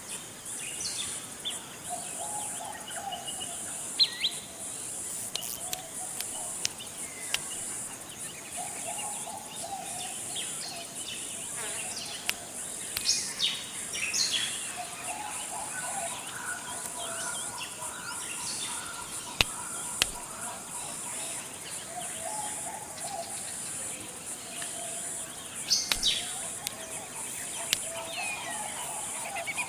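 Forest ambience: a steady high insect drone, with birds chirping and whistling over it. A low cooing bird call repeats every few seconds.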